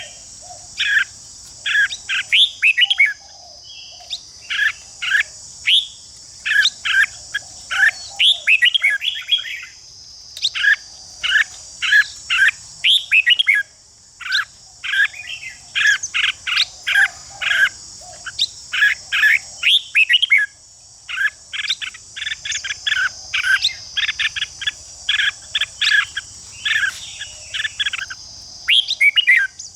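Red-whiskered bulbuls singing: short, quick warbled phrases repeated one after another with brief pauses, over a steady high-pitched hiss.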